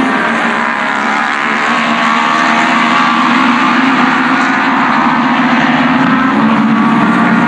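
Racing motorcycle engines at high revs going by, the pitch shifting up and down as they change gear and speed.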